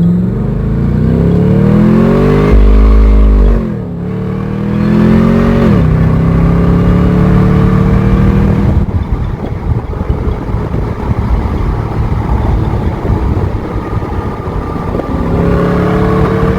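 Chevrolet Camaro ZL1's supercharged 6.2-litre V8 with the mufflers deleted, pulling hard under throttle. The revs climb, drop at a gear change a few seconds in, climb again and drop again. After a steady cruise comes a rough, uneven spell, and near the end the revs climb again.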